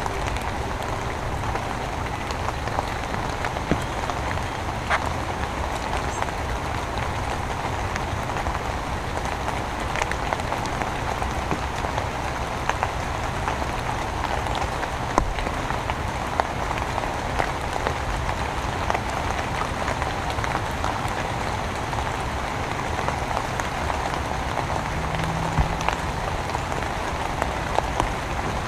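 Steady heavy rain falling, a dense hiss of drops with scattered sharper taps of single drops hitting close by.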